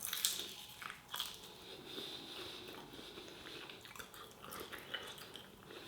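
A person chewing a crispy wonton, with short faint irregular crunches and mouth sounds.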